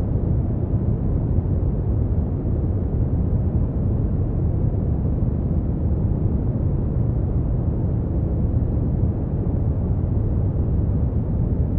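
Brown noise: a steady, deep rushing hiss, strongest in the low bass and fading off towards the highs, with no change throughout.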